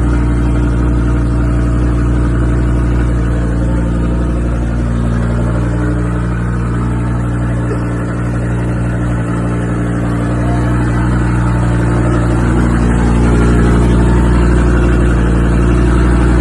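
Car engine running steadily with a low, even drone, growing a little louder in the last few seconds.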